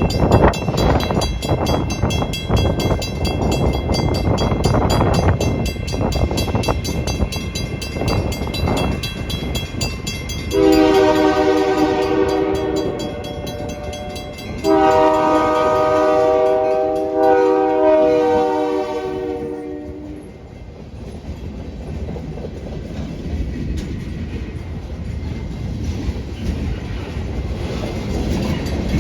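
Local freight train running past with steady wheel clatter, its locomotive's multi-chime horn sounding twice: a blast of a couple of seconds about ten seconds in, then after a short gap a longer one of about five seconds.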